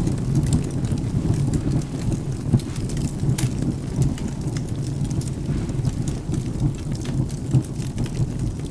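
Rain and thunder ambience with a crackling wood fire: a steady low rumble under scattered sharp crackles and pops, one louder snap about three and a half seconds in.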